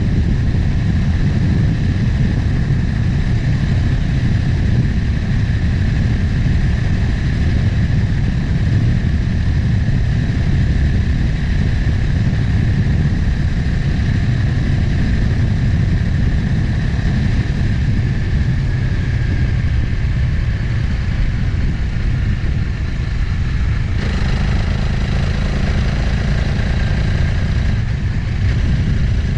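Motorcycle engine running steadily at cruising speed, with wind rushing over the helmet or bike-mounted microphone. The sound changes abruptly about 24 seconds in.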